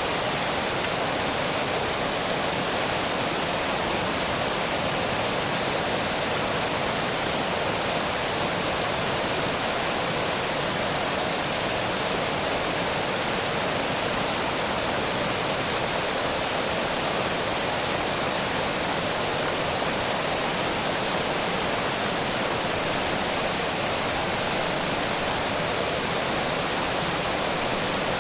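Water pouring steadily over a small dam, a constant rushing hiss with no breaks or changes.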